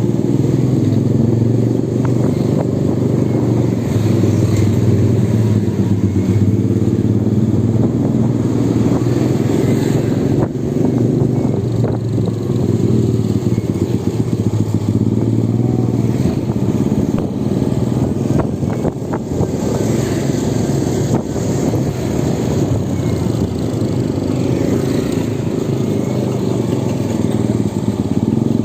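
Electric motorbike on a test ride: a steady, loud, low rumble that swells and eases gently.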